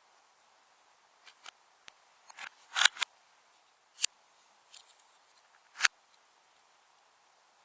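Slime being handled by hand, giving short sharp clicks and pops at irregular moments, with a cluster a little under three seconds in and a loud single pop near six seconds.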